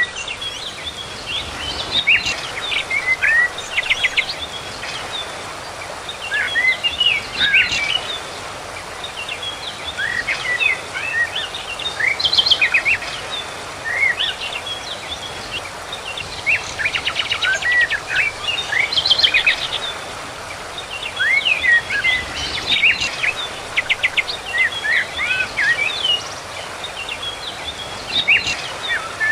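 Wild birds singing and calling in bouts every few seconds: short chirps, quick pitch sweeps and fast rattling trills, over a steady background hiss.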